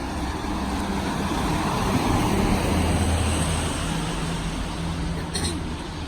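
A motor vehicle passing on a rain-wet street: engine and tyre noise swell to loudest around the middle, then fade. A short click comes near the end.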